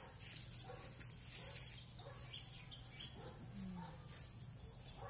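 Quiet open-air ambience with a few short, high, falling bird chirps, over a faint steady low hum.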